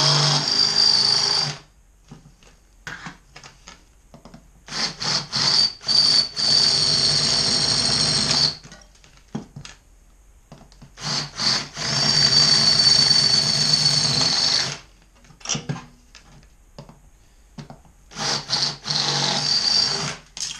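Cordless battery drill drilling out the rivets that hold the end cap on a motorcycle exhaust can. It makes four runs of a few seconds each, with a steady high whine, and each run is started with quick stop-start trigger blips.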